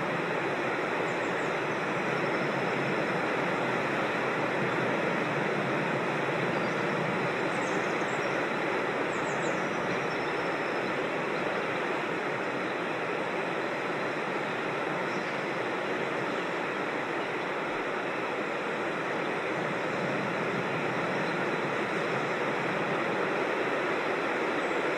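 Steady rush of creek water tumbling over rocks in a small waterfall, with a few faint high bird chirps about a second in, around eight to ten seconds in, and again near fifteen seconds.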